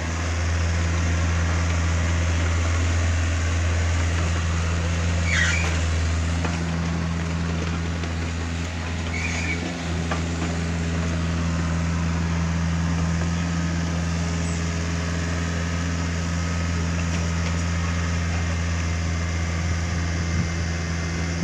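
Takeuchi TB150 mini excavator's diesel engine running with a steady drone, with two brief high squeaks about five and nine seconds in.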